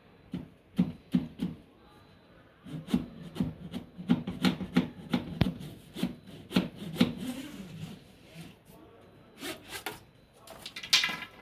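Irregular knocks, taps and rubbing as a semi-automatic washing machine's plastic drain hose is handled by hand to push along socks clogging it. The knocking is busiest in the middle, and there is a louder scrape near the end.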